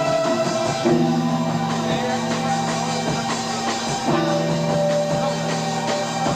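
Live progressive rock band playing on an amateur tape recording: drum kit keeping a steady beat under held keyboard chords and guitar, the chords changing every few seconds.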